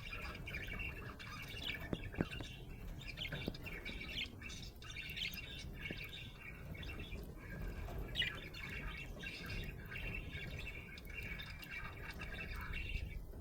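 Budgerigar chirping and warbling without pause, a dense run of short quick chirps with a few louder notes about two and eight seconds in.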